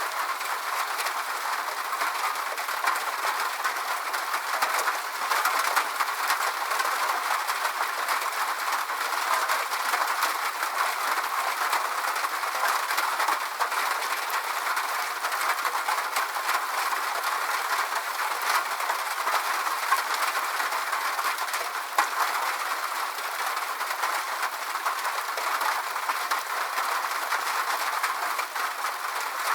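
Steady rain falling, an even hiss with many small ticks of drops.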